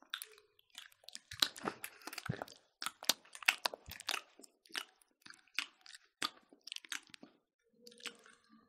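People biting into and chewing smoked pork ribs. It is a quick, irregular run of short crunching clicks that thins out toward the end.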